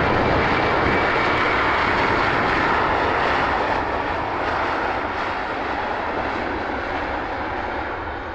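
Airbus A321 jet airliner's engines: a loud, steady rush of jet noise that slowly fades as the aircraft moves away.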